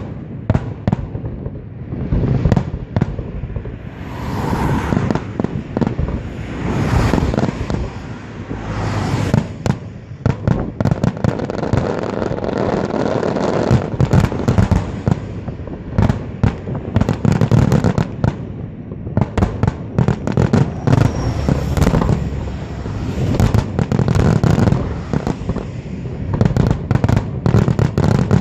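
Aerial fireworks display: a dense run of shell bursts and bangs over continuous crackling, thickening into a rapid barrage near the end.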